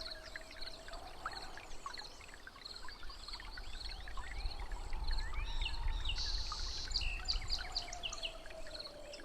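Dense jungle ambience: many birds chirping and calling over an insect call that pulses steadily, with a short buzzing burst past the middle. A long low drawn-out tone fades out about a second in and returns near the end, over a low rumble.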